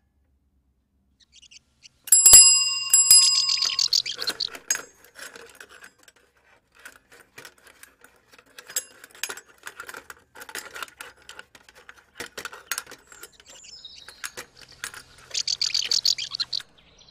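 Bicycle bell rung about two seconds in, a sharp metallic ring with several high overtones that fades over about two seconds, and rung again more softly near the end. Faint scattered clicks and rattles fall between the two rings.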